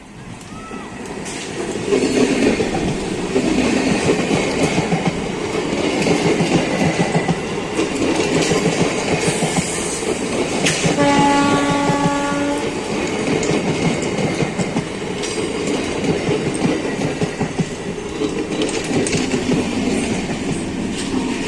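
Train running on the rails with a dense wheel clatter that builds over the first couple of seconds and then holds steady. About halfway through, the locomotive gives one horn blast of about a second and a half.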